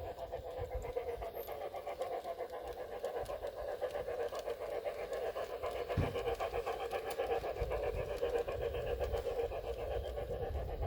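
LGB Forney garden-railway locomotive running, its Massoth XLS sound decoder playing simulated steam chuffs at a quick, even beat through the loco's speaker. There is a single thump about six seconds in.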